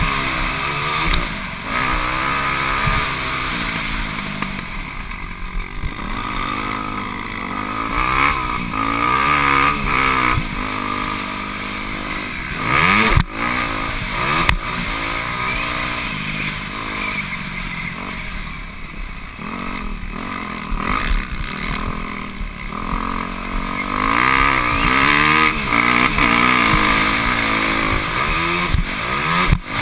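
Motocross dirt bike engine revving hard and falling back again and again through the lap, the pitch climbing and dropping every second or two, over a steady rushing noise.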